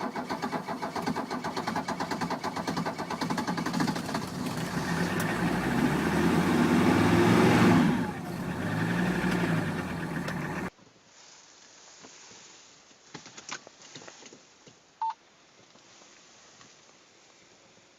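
Diesel engine running just after a cold start, with an even, rapid pulsing. It rises in level and then falls back in pitch about eight seconds in. It cuts off abruptly before halfway through, leaving a quiet stretch with a few clicks and a short beep.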